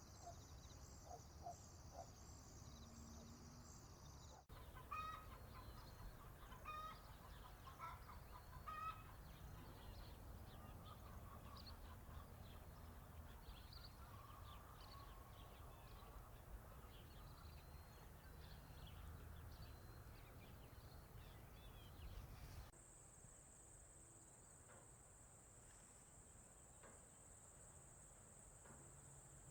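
Chickens clucking, with a few louder calls early on over a low background rumble. Near the end this cuts to a steady, high-pitched trill of crickets.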